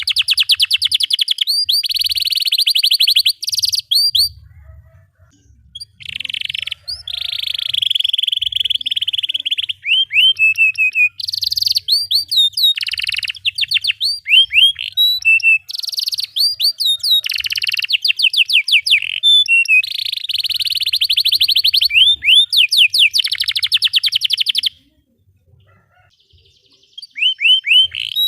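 Domestic canary singing a long, loud song of rapid rolling trills and runs of rising chirps, broken twice by pauses of about two seconds.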